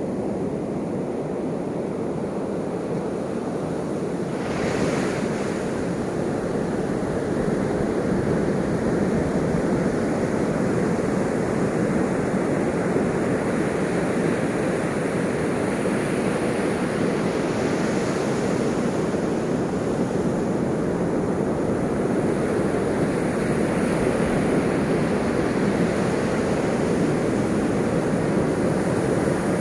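Ocean waves washing in continuously, a steady surf rush with one brighter swell about four to five seconds in.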